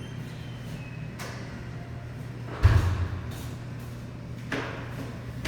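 Strong windstorm gusts buffeting the microphone in surges, the loudest about two and a half seconds in, over a steady low hum.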